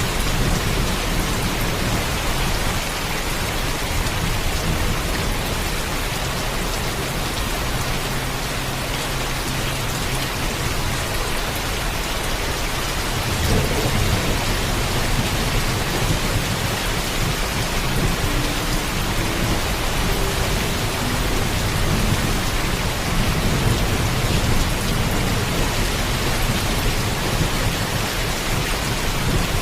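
Heavy rain falling steadily, with a low rumble of distant thunder underneath that swells somewhat about halfway through.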